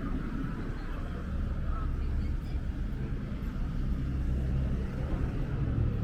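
City street ambience with a vehicle's low engine rumble, growing stronger over the last few seconds.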